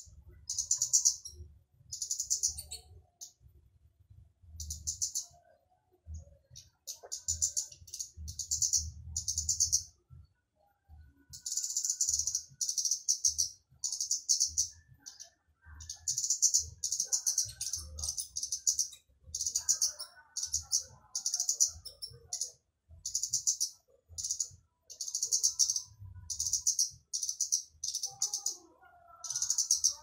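Flowerpecker (burung cabai) calling: high, sharp, rapid trilled notes about half a second long, repeated roughly once a second with short pauses.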